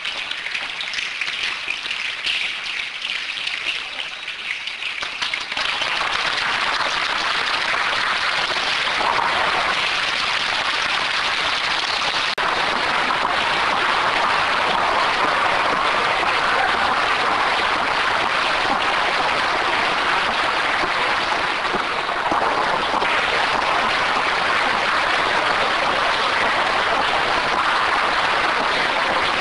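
Thunderstorm rain pouring down steadily, getting heavier about five seconds in.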